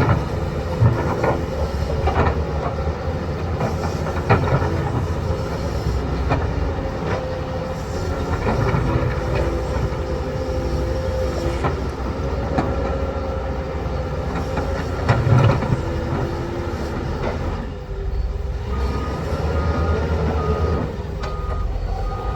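Heavy diesel construction machinery, an excavator working with a dump truck, running steadily with scattered metallic clanks. A reversing alarm beeps a few times near the end.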